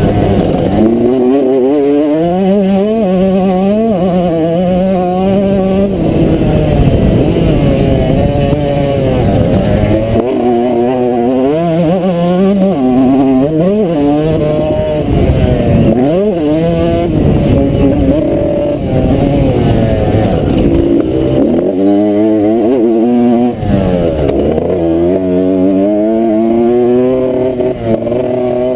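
Suzuki RM125 single-cylinder two-stroke motocross engine revving hard under load, its pitch climbing in repeated steps as it is shifted up and dropping sharply when the throttle is shut several times, over steady wind and riding noise.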